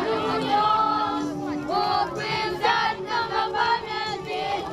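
A group of voices singing together, several pitches sounding at once with notes held and sliding.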